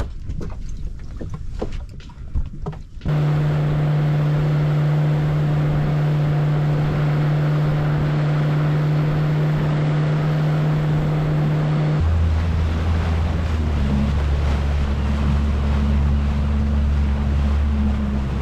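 A few light knocks and clicks, then a boat's engine running steadily under way, with wind and water noise. The engine starts suddenly about three seconds in, and its steady hum drops to a lower note about twelve seconds in.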